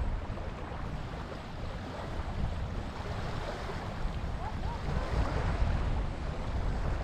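Ocean surf washing steadily on the beach, with wind buffeting the microphone in a low rumble.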